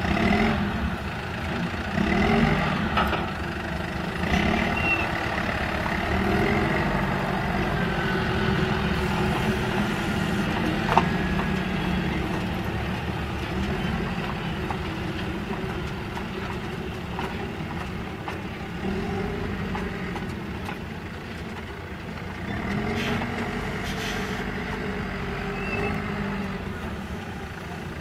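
Truck engine working at varying speed, its pitch rising and falling as it moves, with a few sharp knocks in between.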